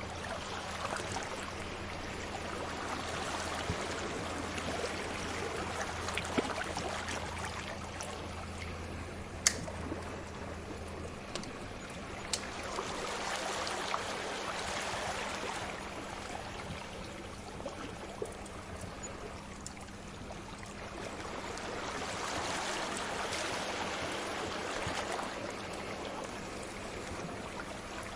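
Sea waves washing in and drawing back in slow swells about every nine to ten seconds, with a few sharp pops from a crackling fire, the loudest about nine seconds in. A faint steady low hum underneath stops about eleven seconds in.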